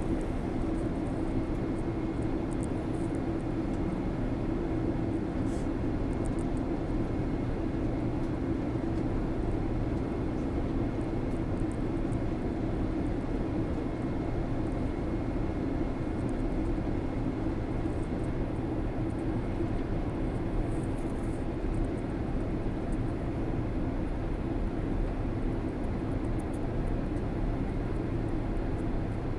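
Steady drone of an airliner's engines and rushing air heard inside the passenger cabin in flight, with a faint steady high whine.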